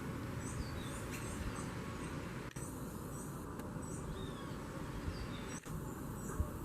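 Short, high-pitched chirps repeating irregularly over a steady low rumble.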